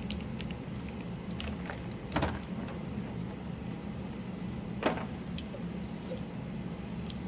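Scattered small plastic clicks and taps of keyboard parts being handled, with two louder clacks about two and five seconds in, over a steady low hum.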